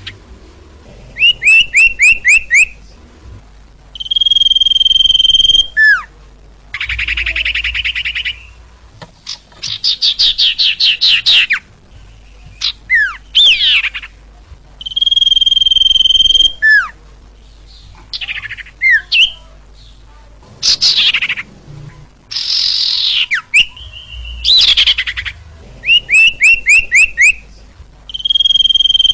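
Sirtu (ashy tailorbird) singing loudly in varied, repeating phrases: quick runs of five or six sharp notes, long steady whistles, buzzy trills and quick down-slurred notes, with short pauses between phrases.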